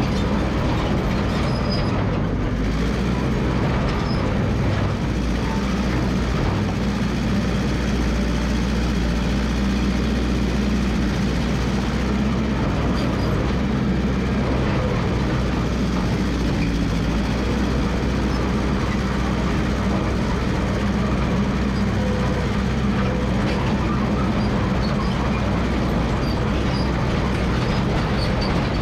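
Massey Ferguson MF 300 crawler dozer running steadily at working speed, with a constant low engine hum.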